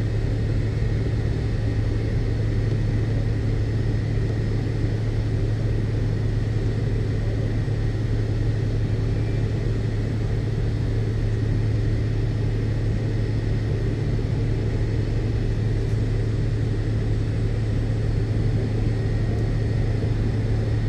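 Steady low rumble and hum inside the cabin of an MD-82 airliner on the ground, its rear-mounted Pratt & Whitney JT8D turbofans running at low power, with a faint steady high whine above it.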